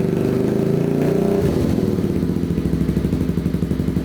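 Suzuki GN125's single-cylinder four-stroke engine running through a cafe racer exhaust just after starting, blipped once about a second in so the pitch rises and falls back, then idling steadily.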